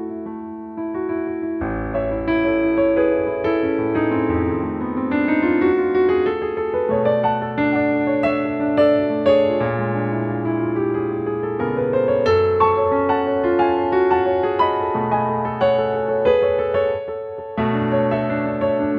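Solo piano playing a flowing piece of arpeggiated notes, with runs climbing in pitch twice over held bass notes.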